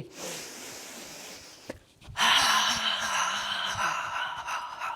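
A person making the qigong heart healing sound: long breathy "haaa" exhalations, a softer one and then, about two seconds in, a louder and longer one with only a faint hum of voice.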